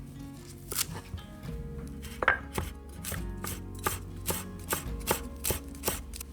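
A knife chopping on a cutting board: a few scattered cuts, then a steady run of about two and a half cuts a second. Soft background music plays underneath.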